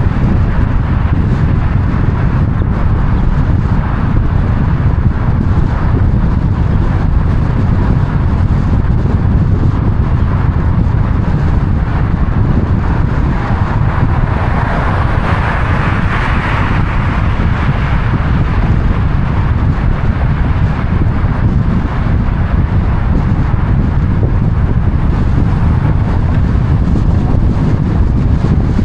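Steady low rumble of a vehicle on the road mixed with wind buffeting the microphone. A hissing swell builds about halfway through and fades again.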